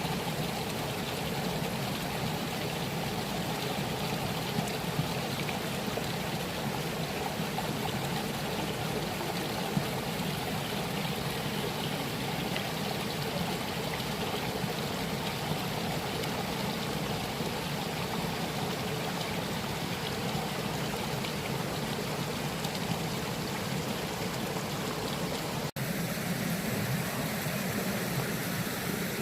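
Water rushing steadily over rocks in a mountain stream, with a momentary break near the end where the sound cuts and resumes.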